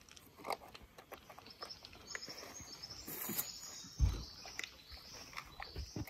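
Birds chirping in the surrounding trees, with small clicks from picnic items being handled and a single low thump about four seconds in.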